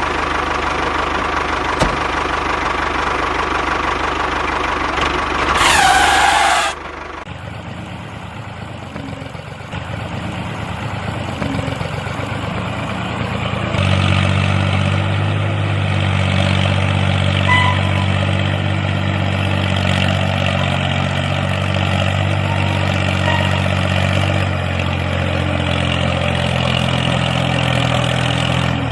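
A motor or engine running steadily, interrupted about six seconds in by a falling whoosh and a drop in level. From about fourteen seconds a steady low-pitched hum with overtones sets in and runs on, changing slightly near twenty-five seconds.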